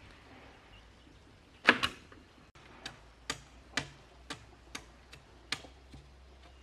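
A series of sharp knocks: a loud double strike, then about eight lighter knocks at an even pace of roughly two a second.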